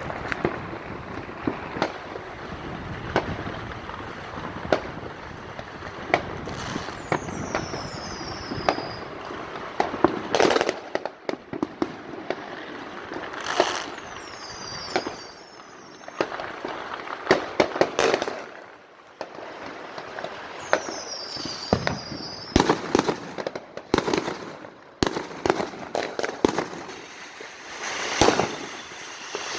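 Neighbourhood fireworks and firecrackers going off all around: a constant crackle of firecrackers with many sharp bangs, heavier in the second half, and three times a few high whistles that fall in pitch.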